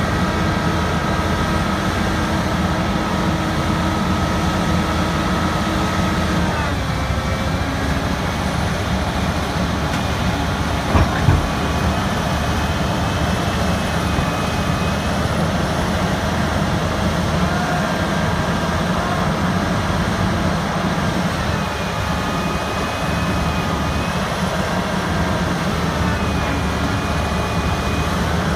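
Heavy diesel machinery engine running steadily with a high whine over it; the pitch drops about six seconds in, and a short knock sounds about eleven seconds in.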